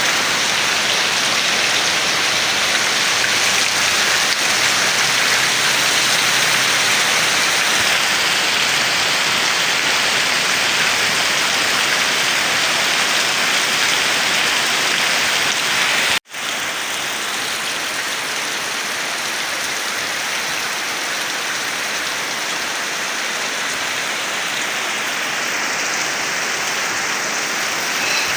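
Heavy rain falling steadily, a dense even hiss. A momentary cut about sixteen seconds in, after which the rain is a little quieter.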